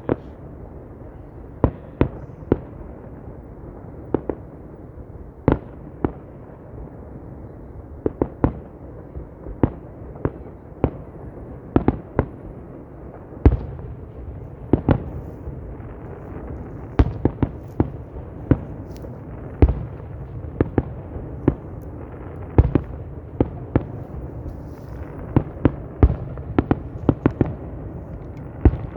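Fireworks display: shells bursting with sharp bangs about once a second, some in quick pairs, over a steady low rumble. The bangs come thicker in the second half.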